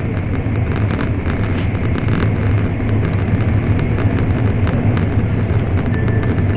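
Steady low rumble and rushing noise inside the passenger cabin of an N700 series Shinkansen running at speed, with faint irregular ticks over it.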